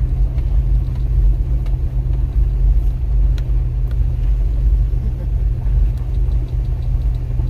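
Pickup truck climbing a steep gravel hill in four-wheel drive: a steady low rumble of engine and tyres, with scattered small clicks and knocks.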